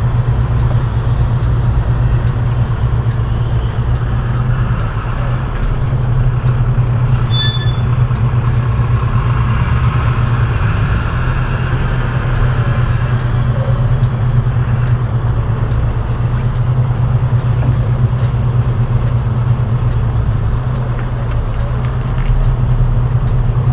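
Semi-truck diesel engine running steadily at low speed.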